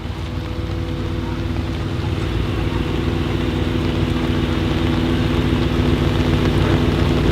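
Mercedes-AMG G63 with an Akrapovič exhaust idling steadily, with no revving, the sound slowly growing louder.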